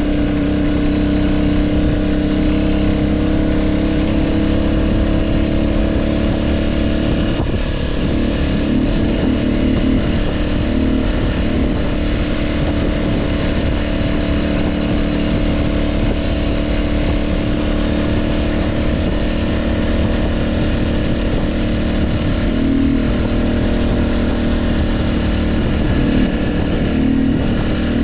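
Motorcycle engine running steadily while riding, heard from the rider's action camera. Its pitch shifts briefly a few times, about a quarter of the way in and again near the end.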